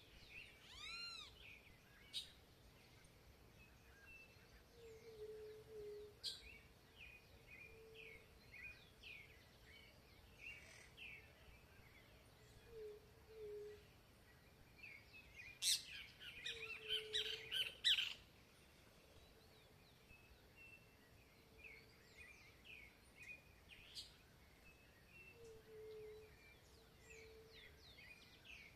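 Several birds singing and calling: many short chirps, low repeated hooting notes, and a loud burst of rapid chattering notes about two-thirds of the way through.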